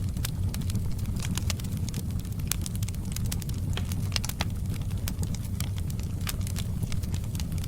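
Wood fire burning: irregular sharp crackles and pops, several a second, over a steady low rumble.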